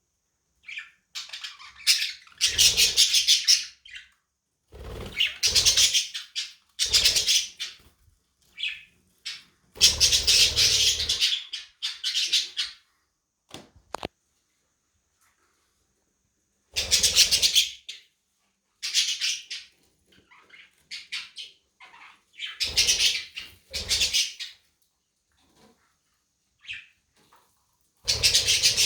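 Budgerigars squawking and chattering in repeated loud bursts of one to two seconds, with short quiet gaps between them.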